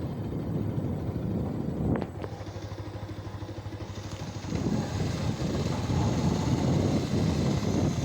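Motorcycle engine running while riding, with a sharp click about two seconds in and getting louder about halfway through.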